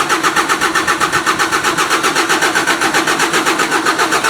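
Generac diesel generator engine cranking over on its electric starter, powered from a jump box, with a rapid, even pulse from the compression strokes. It turns over but does not catch and run.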